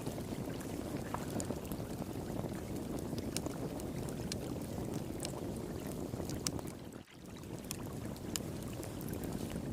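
Wood fire crackling with irregular sharp pops and snaps, over the steady rush of flowing water. Both drop out briefly about seven seconds in.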